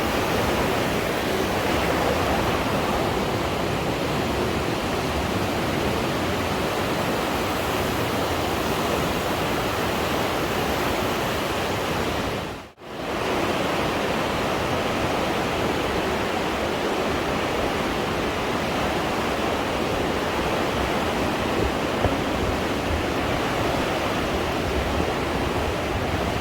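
The Aare river rushing through its gorge: a steady, loud roar of fast-flowing water. It cuts out briefly about halfway through, then resumes.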